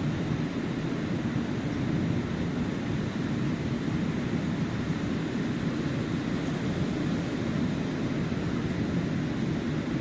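Ocean surf washing steadily on a sandy beach, with a low wind rumble on the microphone.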